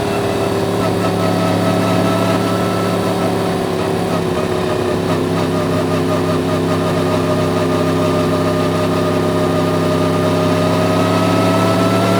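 Yamaha MT-10's crossplane inline-four engine running at a fairly steady engine speed; its pitch sags slightly and then rises again near the end.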